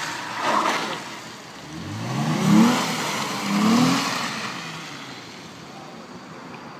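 Twin-turbocharged 3.8-litre V6 of a Hyundai Genesis revving hard twice, its pitch rising steeply each time, then settling back to a lower running sound.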